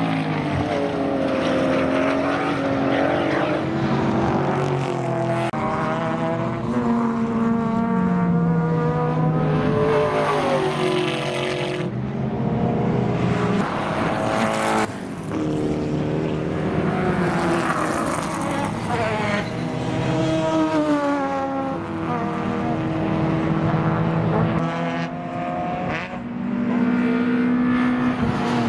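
Several racing sedans' engines revving hard and changing gear as they pass, their pitches climbing and dropping over one another again and again.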